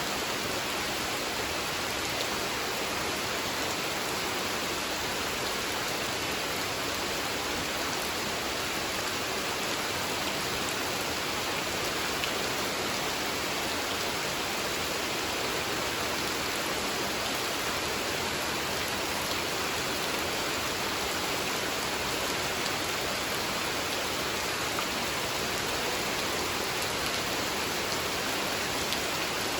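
Steady rain falling on a pond, an even hiss of countless drops hitting the water.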